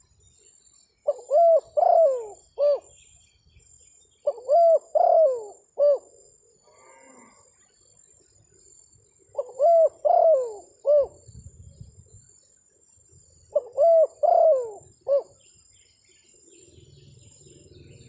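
Spotted dove (terkukur) cooing: four phrases of several rolling coo notes each, a few seconds apart.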